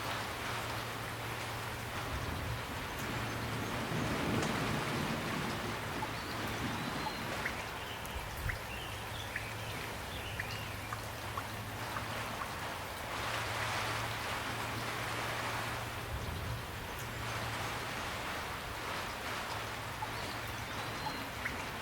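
Steady, gentle rain falling, with individual drops pattering on a surface.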